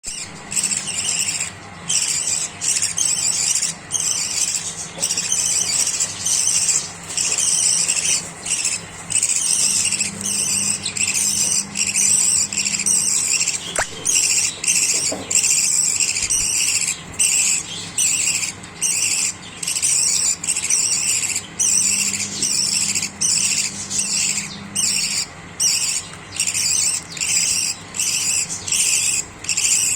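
Budgerigars chattering: a near-continuous run of high, busy chirps and warbles, broken by short pauses about every second.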